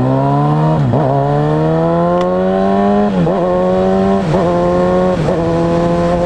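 Kawasaki Ninja ZX-6R inline-four engine pulling hard under acceleration, its pitch climbing and dropping briefly four times as it shifts up, then holding steady at cruising speed.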